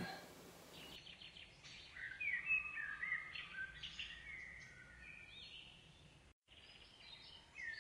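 Faint birdsong: birds chirping and whistling short gliding phrases, broken by a brief dropout to silence about two-thirds of the way through.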